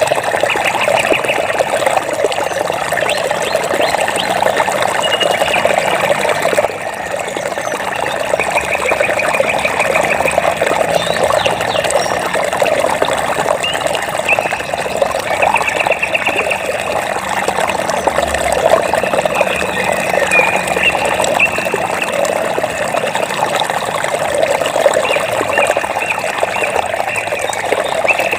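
Running water splashing steadily, with short rapid trills of about a second each repeated every few seconds above it.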